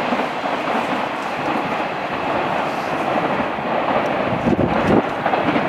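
Container freight wagons of a JR Freight train rolling past on steel rails: a steady rumble of wheels on track, with a few sharper clacks as wheels cross rail joints a little before the end.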